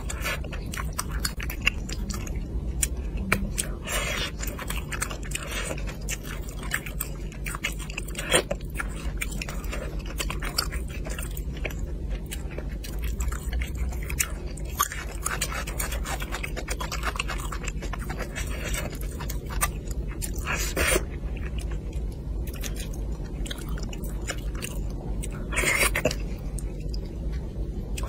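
Close-miked chewing and mouth sounds of a person eating spicy braised fish, with many small wet clicks and a few louder smacks. A steady low hum runs underneath.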